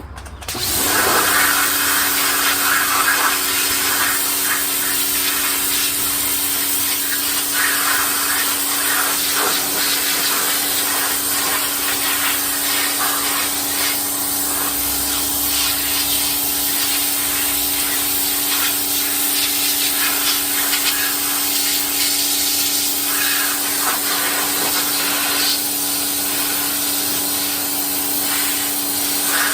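Small electric pressure washer, a Ryobi, switched on about half a second in and running steadily: a motor-and-pump hum under the hiss of the water spray, used to wash grease off an engine motor mount bracket.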